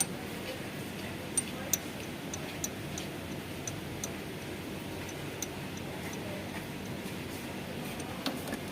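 Irregular light metallic clicks and taps as hand tools work a metal air-conditioning pipe fitting, over a steady low hum.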